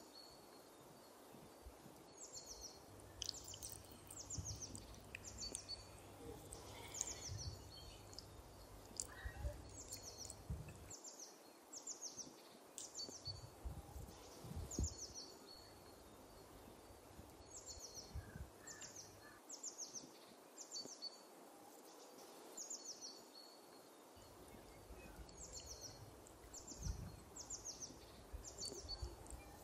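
A small songbird calling over and over: a short, high chirp that sweeps downward, about once a second, with a few brief pauses. Faint soft knocks of hands handling marinated chicken sound underneath.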